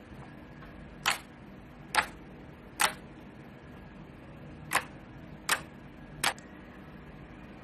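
Slime being worked by hand, giving six short sharp pops spaced irregularly about a second apart, with a longer gap in the middle.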